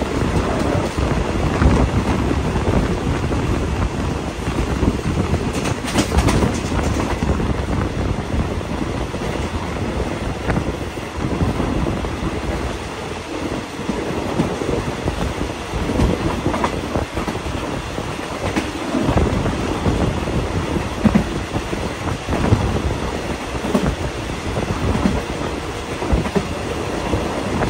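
Passenger train coach rolling along the track, its wheels clattering irregularly over the rail joints under a steady running rumble.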